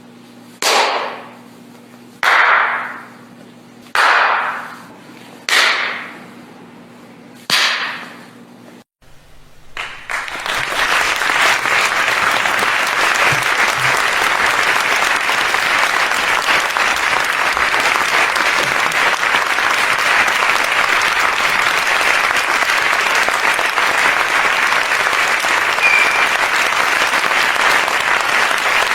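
Five sharp, echoing cracks about a second and a half apart, then crowd applause that swells in about ten seconds in and carries on steadily.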